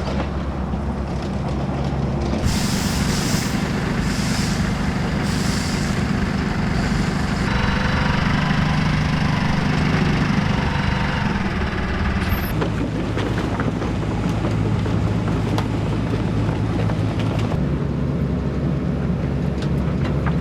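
Heavy vehicle engines running steadily, with about four short hisses in the first several seconds; the engine sound shifts abruptly a few times.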